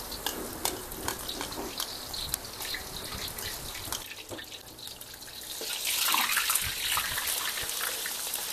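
Squid roe in a cornflour coating deep-frying in hot oil in a wok: a steady sizzle with many small pops and crackles. It grows louder and fuller about six seconds in.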